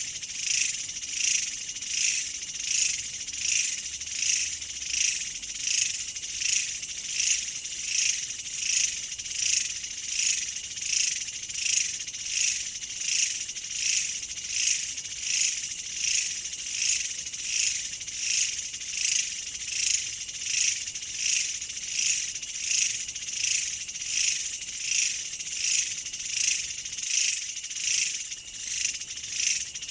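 Insect chorus, cricket-like: a high-pitched chirring that swells and fades in an even rhythm, about once a second.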